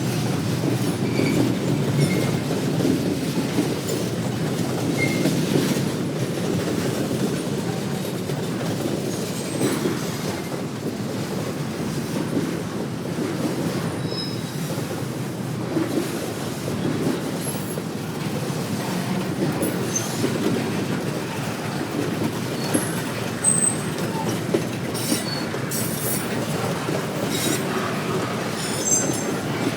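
Railroad cars rolling past in a steady rumble and clatter, with brief high wheel squeals now and then, most of them in the second half.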